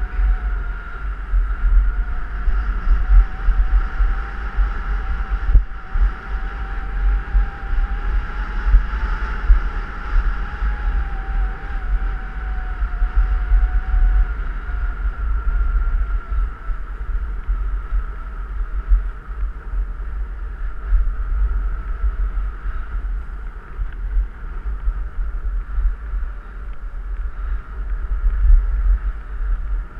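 Wind buffeting a camera microphone during a descent down a ski slope: a steady, fluttering low rumble with a faint whine that drifts slowly in pitch.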